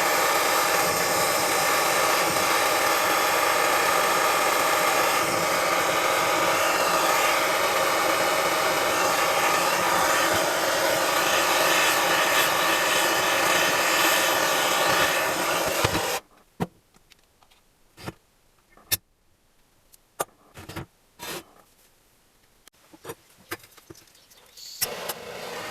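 A power tool running steadily with a rasping, grinding sound, cut off sharply about two-thirds of the way in. After that it is nearly quiet, with scattered sharp clicks and knocks of metal parts being handled.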